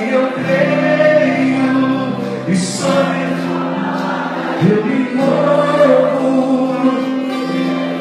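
A group of voices singing a gospel worship song together in long held notes.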